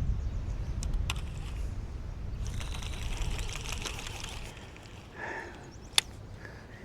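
Wind rumbling on the microphone, fading, then light splashing and handling noises on a kayak, with a few faint clicks and one sharp click about six seconds in.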